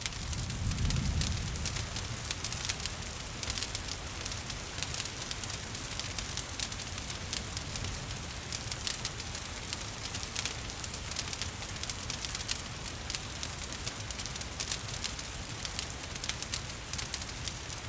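Wood fire crackling with frequent sharp pops over a steady rain hiss, and a brief low rumble in the first two seconds.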